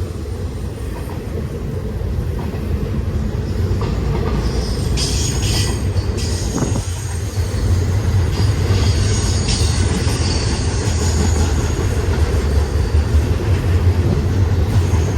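Freight train cars rolling past at speed: a steady, loud low rumble of steel wheels on rail, with a faint high squeal of wheels against the rail from about five to eleven seconds in.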